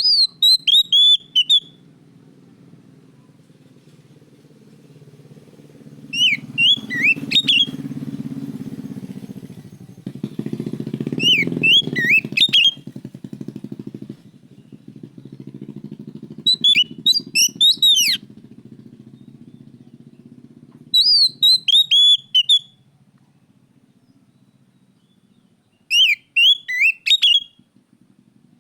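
Oriental magpie-robin (kacer) singing: six short phrases of quick, falling whistled notes, one about every five seconds. Under them runs a low rumble that swells through the middle and fades before the end.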